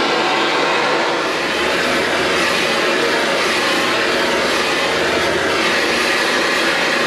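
Gas torch burning with a steady rushing noise as it heats the welded aluminum around the weld to relieve distortion and anneal it.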